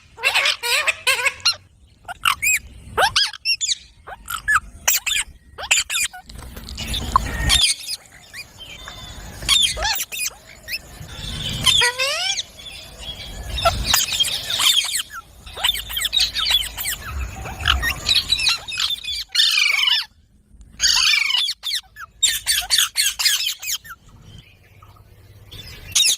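Several pet rose-ringed (Indian ringneck) parakeets calling over and over in short, sliding calls, with brief pauses between bouts.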